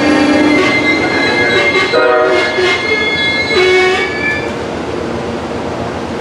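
A train rolling past, its wheels squealing against the rail in high steady tones that fade out a little past halfway, leaving the steady rumble and rattle of the cars.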